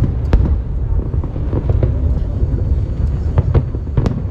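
Fireworks display: a continuous low rumble of shell bursts with sharp cracks, a couple near the start and a flurry near the end, fewer in between.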